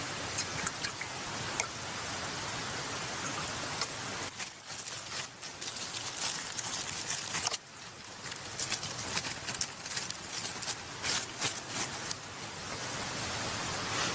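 Cooking over a campfire: a steady hiss with many scattered crackles and sharp ticks, broken off abruptly about seven and a half seconds in and then resuming.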